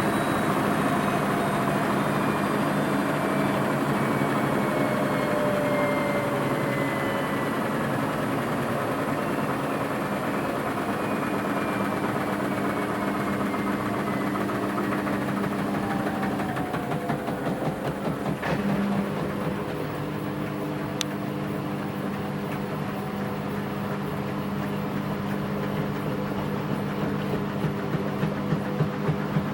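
Washing machine spinning near the end of its program, its motor humming with a whine that falls in pitch as the drum slows. There are a couple of sharp clicks past the middle, and the sound turns to a rhythmic pulsing near the end.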